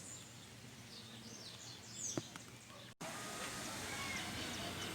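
Small birds chirping in short, quick downward-sweeping calls over an outdoor background hiss. A sharp click comes about two seconds in, and about a second later the sound cuts abruptly to a louder, denser background with more scattered bird calls.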